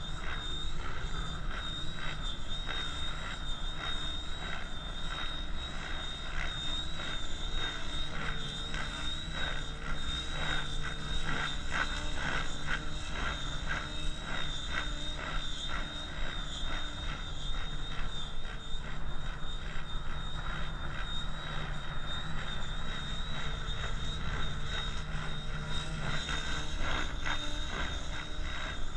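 KDS Innova 700E electric radio-controlled helicopter flying, with a steady high whine over the rotor sound and wind buffeting the microphone.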